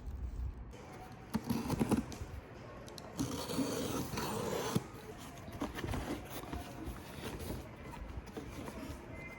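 Handling noises in a small room: a few irregular bouts of scraping and rustling, the longest about three seconds in.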